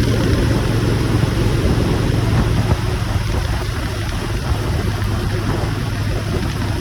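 Motorcycle engine running at a steady speed under a loud, even rush of wind noise.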